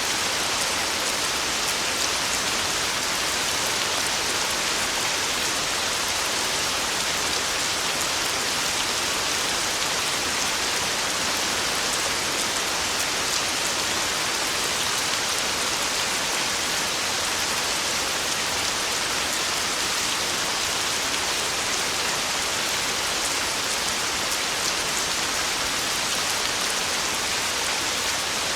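Heavy rain falling steadily on a tin roof: an even hiss with the faint ticks of individual drops.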